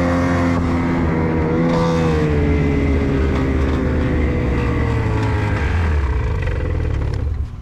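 Ski-Doo snowmobile engine running hard, its pitch lifting briefly and then sagging steadily as it loses revs, with the level dropping near the end. This comes just as the motor lets go: the engine is failing.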